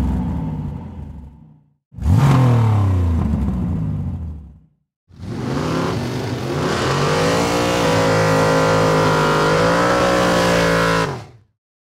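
Car engine revving: two quick revs that climb and fall away, then a long pull held at high revs for about six seconds that cuts off suddenly.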